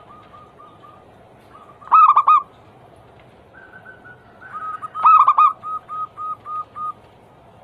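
Zebra dove (perkutut) cooing its anggungan song: two loud bursts of rapid, quavering coos about two and five seconds in, the second trailing into a run of softer, evenly spaced coos.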